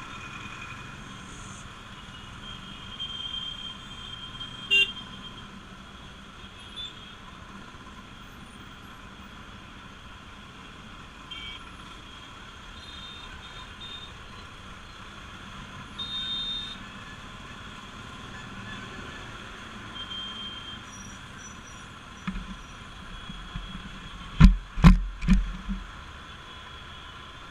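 Bajaj Pulsar RS200's single-cylinder engine running steadily while riding in traffic, with short vehicle-horn toots now and then. A few loud thumps come close together near the end.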